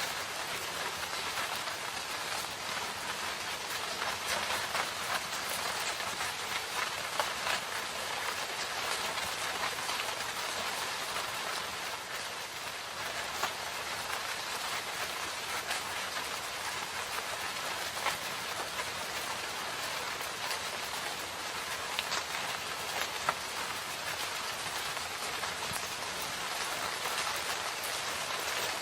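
Steady rain falling in a forest: a dense, even hiss of drops with scattered sharper drips throughout.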